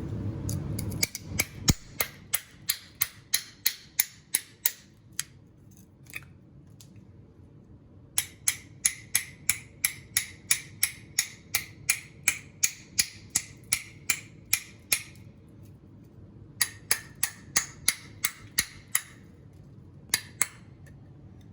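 Runs of sharp clicks with a slight metallic ring, about three a second, in three bursts separated by short pauses.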